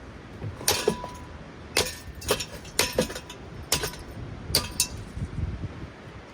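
A Hawkins ceiling fan being smashed with a golf club: about nine sharp strikes in quick succession, some in close pairs, each with a short clinking ring.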